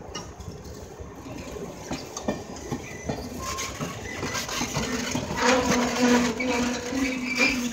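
Passenger railcars rolling past close by, their wheels clicking over the rail joints. About halfway through a steady wheel squeal sets in and the running noise grows louder.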